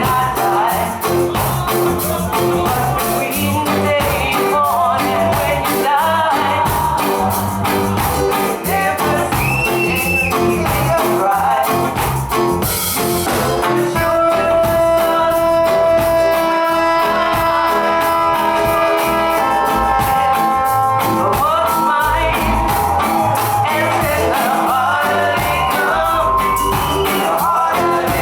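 Live reggae band playing with a singer: steady drum beat, bass and guitar, with a stretch of held chord tones about halfway through.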